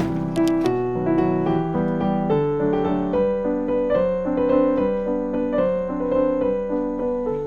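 Background piano music: a gentle run of notes played at a steady pace, with a few short clicks right at the start.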